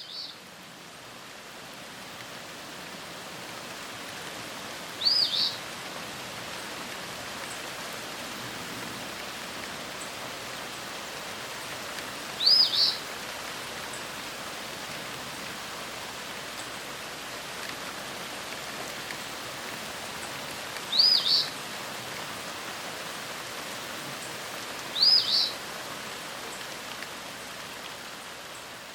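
A steady hiss of outdoor ambience, with a small bird giving a short, high double chirp five times, several seconds apart.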